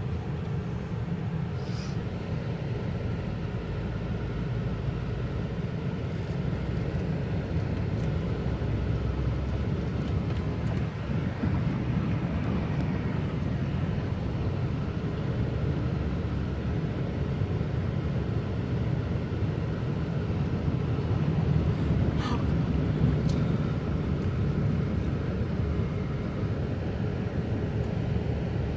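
Chevy Avalanche pickup driving through floodwater: a steady low rumble, with a few faint clicks.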